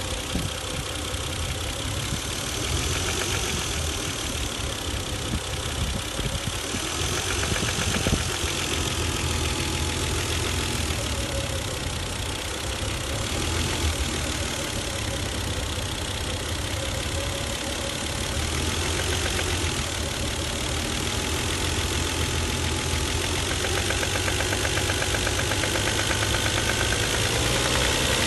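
Toyota 1JZ-GE VVT-i 2.5-litre straight-six engine idling with a knock coming from inside the engine.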